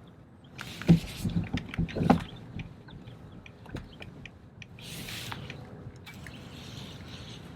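A quick run of loud knocks and thumps, as of gear being handled against a plastic fishing kayak's hull, then scattered small clicks and a brief hiss about five seconds in.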